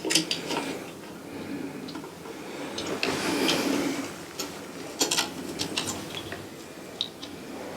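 Small clicks and knocks with a soft sliding scrape as a star diagonal is fitted into a telescope's visual back: a few clicks at the start, a longer scrape around three to four seconds in, then more clicks about five seconds in and again near the end.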